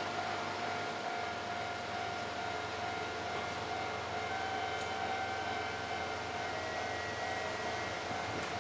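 Kintetsu 15200 series electric train pulling slowly into a station platform: a steady whine over its low running noise, dipping slightly in pitch near the end.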